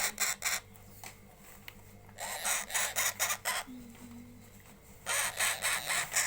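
Baby parrot giving harsh, raspy squawks in quick pulsed runs, three bouts, at the start, about two seconds in and about five seconds in. A faint steady hum runs underneath.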